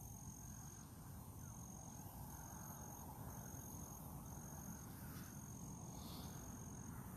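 Insects trilling: a high, steady trill in pulses of about half a second, repeating roughly once a second, over a low rumble.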